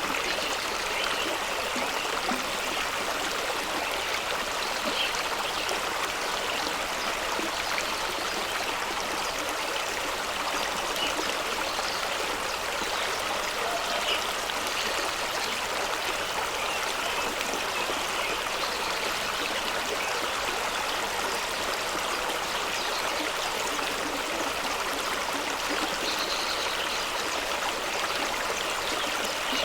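Fast-running stream rushing and splashing over rocks, a steady wash of water noise with small trickles and gurgles through it.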